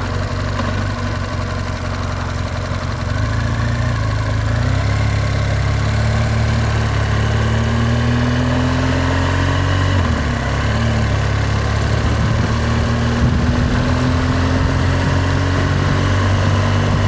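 Motorcycle engine running under way with wind rushing past. Its pitch climbs slowly, drops briefly about ten seconds in, then climbs again.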